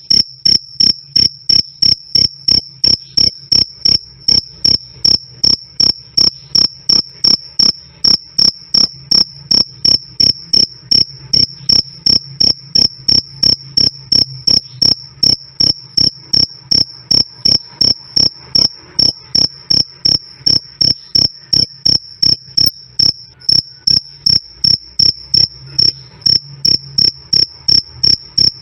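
Cricket chirping loud and clear: a high 'krik' of one steady pitch repeated evenly about three times a second without a break.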